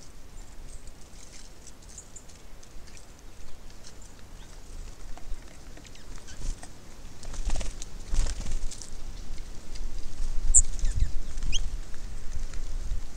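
Small birds at a seed feeder: a scatter of light pecking and scratching taps, with a few brief high chirps past the middle. A low rumble, like wind on the microphone, rises in the second half.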